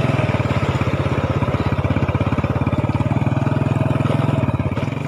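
Motor scooter engine running steadily at an even pace, heard from the rider's seat.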